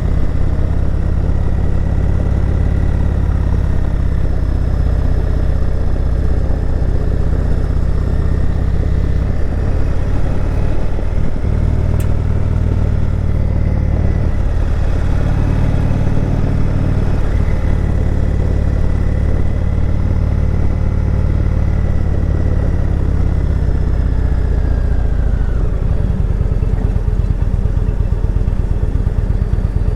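Indian Chieftain Dark Horse motorcycle's V-twin engine running steadily under way, heard from on the bike. The engine note shifts a few times, around ten seconds in, about seventeen seconds in and near the end, and there is one sharp click about twelve seconds in.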